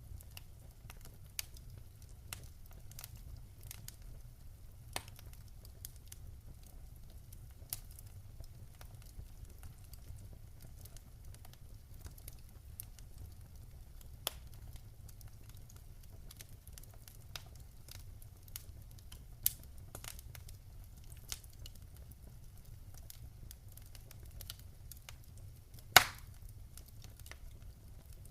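Wood fire burning in a fireplace, crackling with scattered sharp pops over a low steady rumble. One pop near the end is much louder than the rest.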